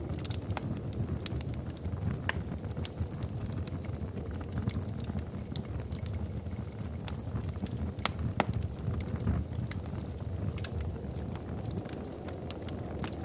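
Wood fire crackling in a fireplace: a steady low rumble of flames with irregular sharp pops and snaps, one louder pop a little past the middle.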